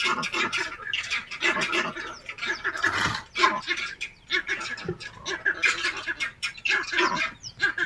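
A flock of birds calling, many short overlapping calls one after another with hardly a pause.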